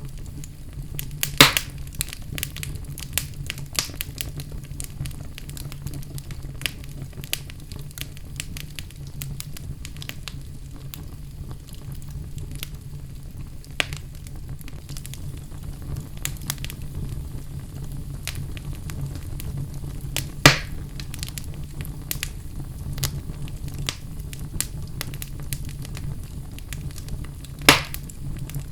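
Wood fire burning in a fireplace: a steady low rumble of flames with frequent small crackles, and three louder pops, one about a second in, one about two-thirds through and one near the end.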